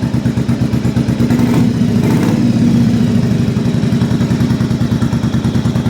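1994 Yamaha Virago 750's air-cooled V-twin running steadily, warmed up. It pulls without hesitation now that the carburettors are rebuilt, the rusted tank cleaned and the petcock replaced.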